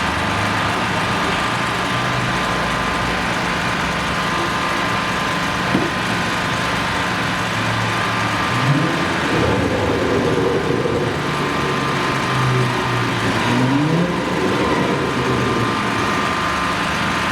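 An engine running steadily, revving up about halfway through and again near the end.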